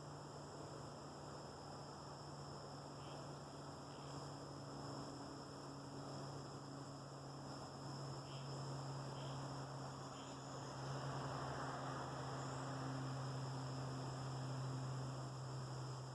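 A steady low hum, growing a little louder about eleven seconds in, with a faint high whine above it and a few faint short chirps.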